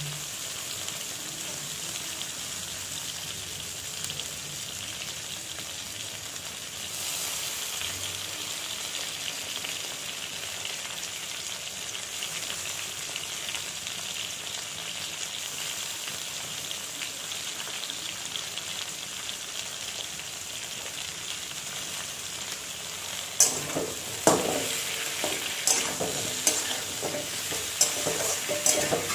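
Potatoes and pointed gourd sizzling in hot oil in a metal kadai: a steady frying hiss that grows a little louder about a quarter of the way in. Near the end, a steel spatula knocks and scrapes against the pan as the vegetables and chopped tomato are stirred.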